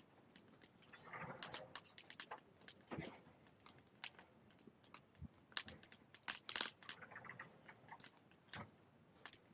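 Wood fire crackling, with irregular sharp pops and snaps, a few louder ones about six seconds in.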